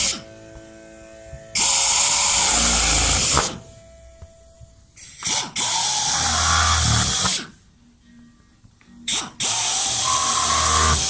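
A power tool run in short bursts of about two seconds each, switched on and off three times with gaps of a second or two, each burst a loud, even whirring noise.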